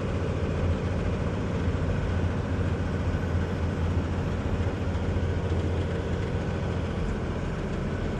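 Semi truck's diesel engine running steadily with road noise, heard from inside the cab: a strong low drone that holds without change.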